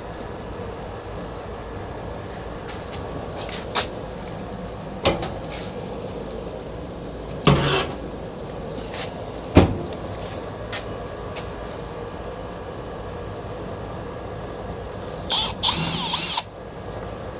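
Metal parts of a ceiling fan being handled during disassembly, with scattered clinks and knocks, then a power drill whirring in two short runs near the end as screws are driven out.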